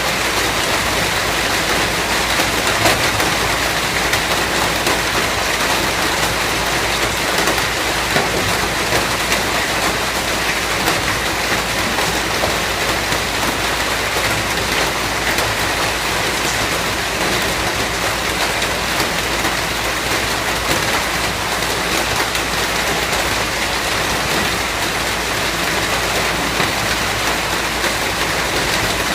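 Steady rain falling, a dense even hiss of drops with small scattered spatters.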